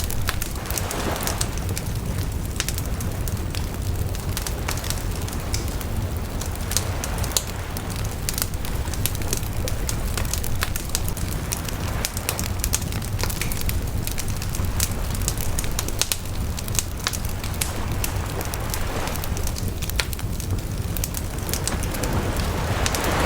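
Wood bonfire crackling, with frequent sharp pops and snaps over a steady low rumble of the flames.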